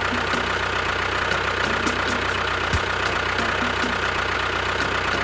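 A motor running steadily, with the regular beat of background music over it.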